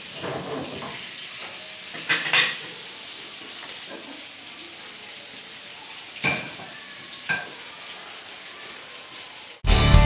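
A few short clinks of dishes and cutlery over a steady hiss, the last two with a brief ringing tone. Loud music starts abruptly near the end.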